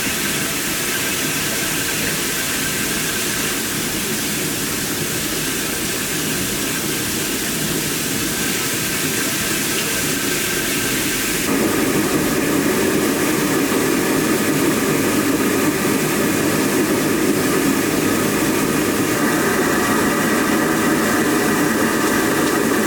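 Century-old microhydro turbine running on its first test under water pressure: a loud, steady rush of water with faint steady whining tones. About eleven seconds in the sound changes suddenly, losing its high hiss and getting louder and lower.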